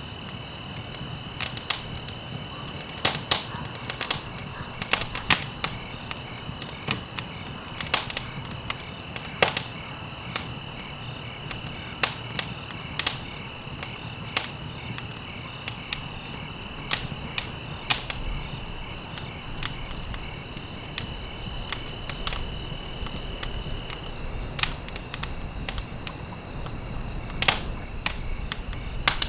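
Wood fire in a fireplace crackling, with irregular sharp pops and snaps over a low steady rumble of flames.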